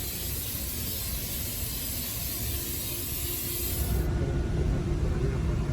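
Steady hiss of compressed air from an air gun working on the truck's bodywork for paint, cutting off suddenly about four seconds in and leaving a low steady hum.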